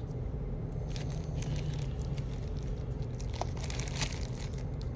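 Plastic candy wrappers crinkling as candy is picked up and handled: a rapid patter of crackles starting about a second in and fading out near the end, over a steady low hum.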